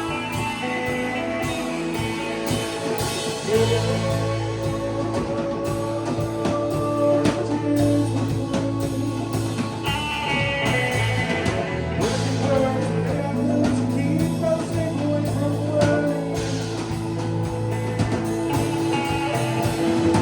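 A band playing rock music: guitars to the fore over bass and drums.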